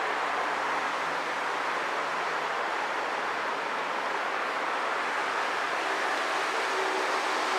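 Hankyu 1300-series electric train running along the track as it pulls away, a steady rushing noise; a faint hum comes in near the end.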